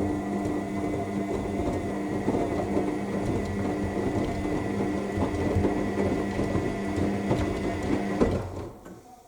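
AEG L7FE7461BI washing machine drum turning the load during the main wash: the motor runs with a steady hum and a thin high whine over a rumbling churn. About eight seconds in the motor stops and the sound fades away, a pause between tumbles.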